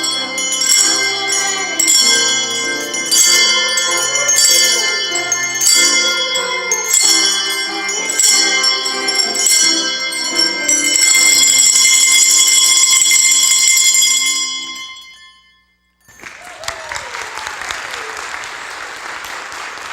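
Children's colour-coded handbells playing the tune, struck notes ringing over one another, ending in a long held ringing chord that fades away. After a short gap comes audience applause.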